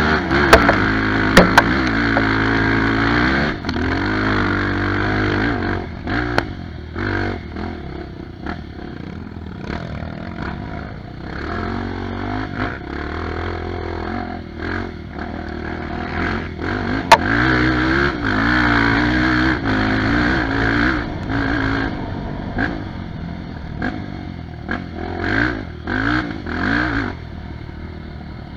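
Off-road trail motorcycle engine revving hard, its pitch rising and falling with the throttle as it climbs a steep, rough trail. A few sharp knocks and clatters cut in, the loudest about a third of the way through.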